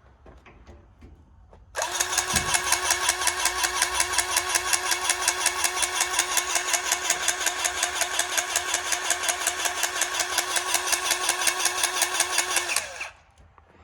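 Powered grease gun running for about eleven seconds, its motor whining with a rapid pulse of several pump strokes a second as it forces grease into a hoist pivot's zerk fitting. It starts about two seconds in and cuts off near the end.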